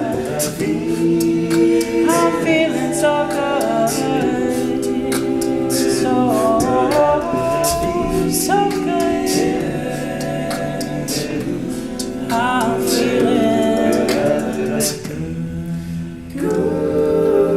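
A cappella vocal group singing wordless close-harmony chords, with sharp vocal-percussion hits keeping a steady beat. The sound thins out briefly near the end before a full chord comes back in.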